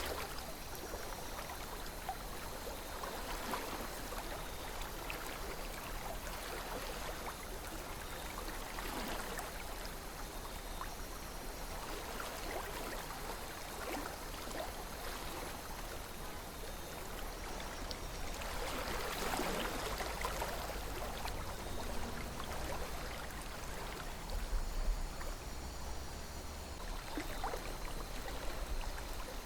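Calm river flowing: a steady rush of water with small irregular gurgles and splashes, swelling briefly about two-thirds of the way through.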